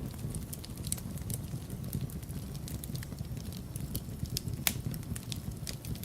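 Wood fire burning in a fireplace: a steady low rumble of flame with irregular sharp crackles and pops, one louder pop near the end.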